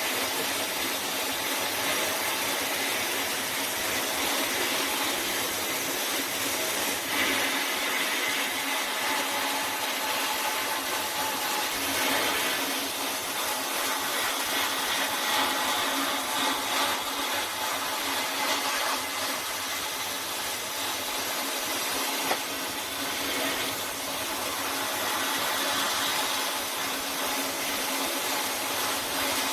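A power tool running steadily, with a continuous hissing, whirring noise, working rust off a steel masonry tool.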